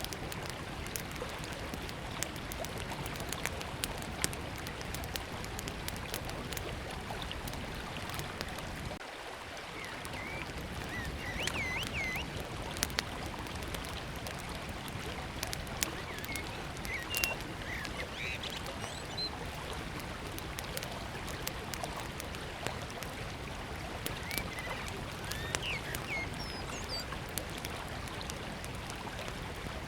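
A river running steadily, with a small wood fire crackling in sharp pops throughout and birds chirping now and then from about ten seconds in.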